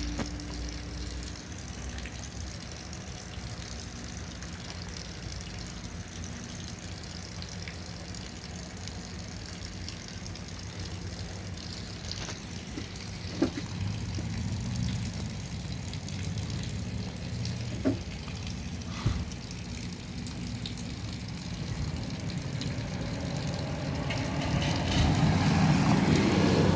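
Heavy rain falling steadily, with a few sharp taps and a low rumble that swells up near the end.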